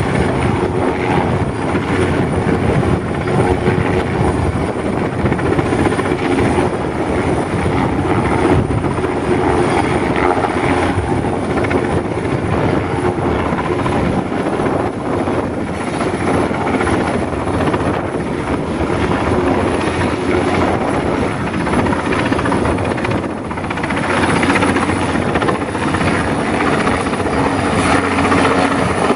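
Commercial air-conditioning unit running steadily: a loud fan whir with a constant low hum.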